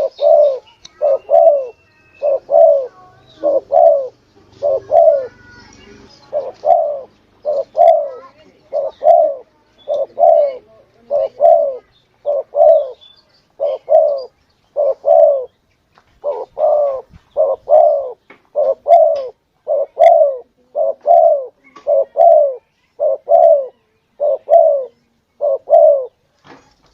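Spotted dove (tekukur) cooing: short, low coos in quick pairs, repeated steadily about once a second, with a brief pause about two-thirds of the way through. This is a lure call used to draw wild spotted doves in.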